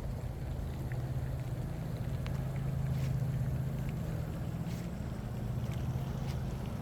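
An engine droning steadily, with a few faint ticks.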